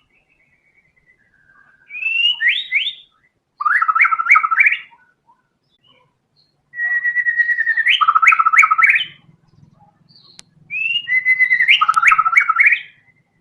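White-rumped shama (murai batu) singing four loud song phrases with short pauses between. Some open with a held whistle and break into fast repeated notes.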